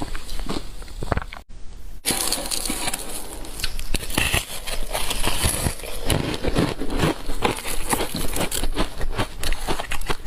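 Ice coated in matcha powder being bitten and chewed close to the microphone: dense crunching and crackling, broken by a short gap about one and a half seconds in.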